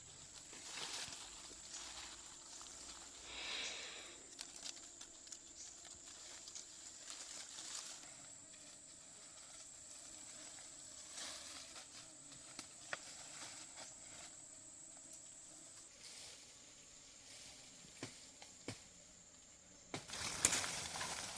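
Faint outdoor ambience with a soft hiss, scattered small rustles and clicks, and a thin steady high tone through most of it. A louder rustling patch comes right at the end.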